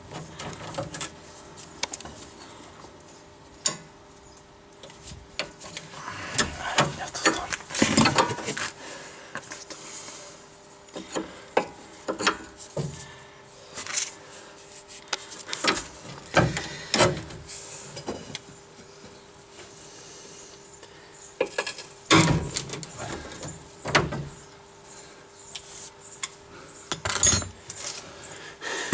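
Hand wrenches clinking, knocking and scraping against metal in irregular strokes as the nut on a sway bar link is worked loose while its bolt is held with a second wrench.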